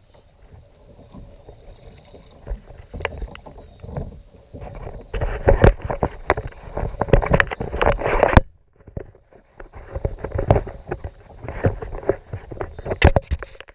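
Irregular knocks, clatter and rustling of gear being handled aboard a kayak, louder from about five seconds in, with a short pause a little past the middle.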